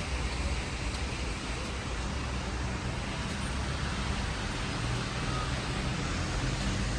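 Steady road traffic: a low rumble under a broad, even hiss.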